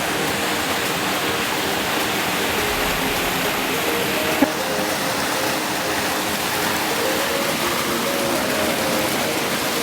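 Waterfall pouring: a steady rush of falling water, with one brief knock about four and a half seconds in.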